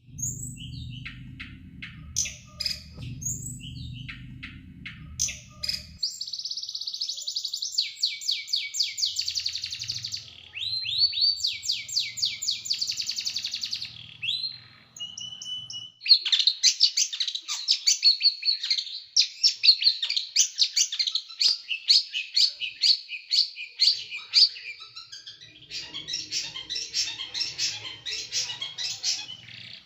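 Small songbird singing 'tembakan': rapid, dense trills of sharp, harsh high notes in long runs, with a short break about halfway through. A low hum lies under the first few seconds and the end.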